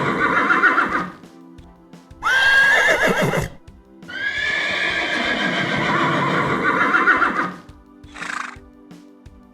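Horse whinnying in three calls. A neigh ends about a second in, a short call follows at about two seconds, and a long whinny runs from about four to seven and a half seconds with a wavering, shaky end. A brief noisy burst comes near the end, with background music underneath.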